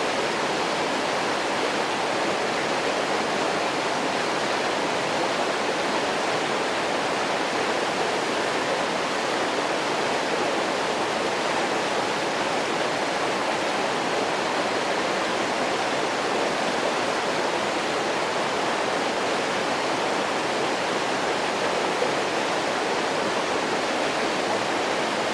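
Waterfall's water falling and splashing, a steady, even rush without a break.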